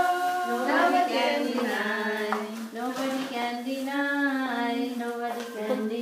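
Children and women singing together in held, gliding notes.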